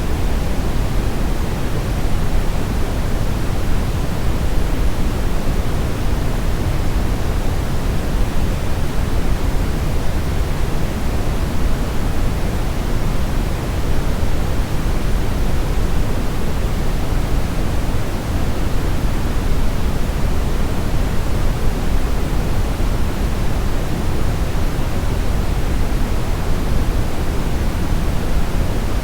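Brown noise: a steady, deep rushing hiss with most of its weight in the low end and little at the top.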